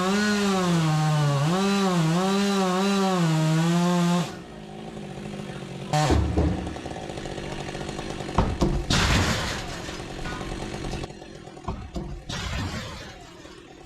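Chainsaw cutting a large oak section, its engine note dipping and recovering under load, then cutting off about four seconds in. A heavy thud follows about six seconds in as the cut piece comes down, with further knocks a few seconds later.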